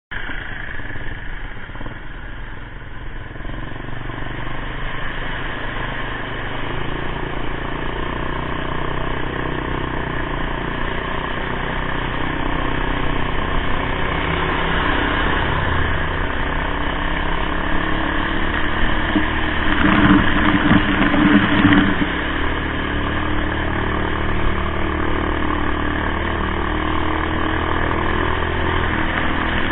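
Demak DTM150 motorcycle's 150cc engine running steadily and slowly getting louder, with a louder, noisier stretch about twenty seconds in.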